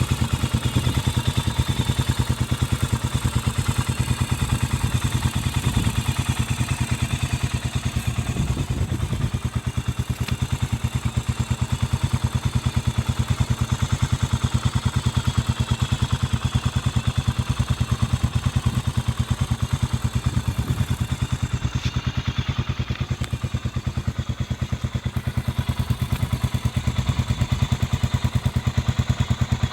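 Honda CB400SS single-cylinder engine idling through a Moriwaki short classic full exhaust, a steady, even train of exhaust pulses.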